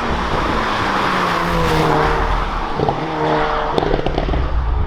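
Hyundai Veloster N's turbocharged 2.0-litre four-cylinder accelerating hard through the 8-speed dual-clutch gearbox, engine pitch rising, with quick upshifts near three and four seconds in, each with a sharp pop from the exhaust. The pops come from ignition timing being delayed on upshifts at more than 90% throttle in N mode.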